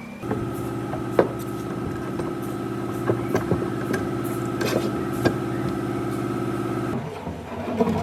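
A motor runs steadily with an even hum and a faint higher whine, with scattered clicks and knocks over it. It starts just after the beginning and cuts off about seven seconds in.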